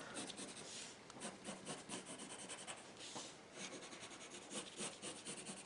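Faint scratching of quick drawing strokes on paper.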